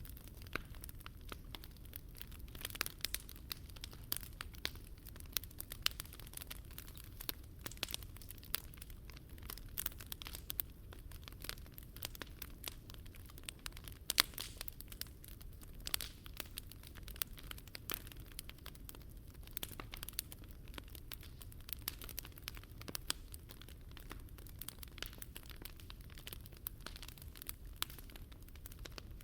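Wood fire burning, crackling with many small, sharp, irregular pops over a steady low rush, a few pops standing out louder.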